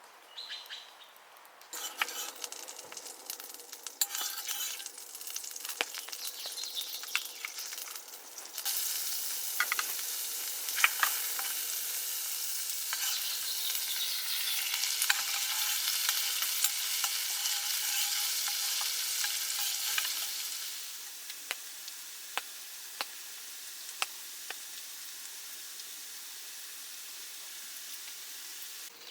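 Food sizzling in a hot pan, with scattered light clicks and taps. The sizzle grows much louder about nine seconds in and drops back to a lower, steady hiss around twenty seconds.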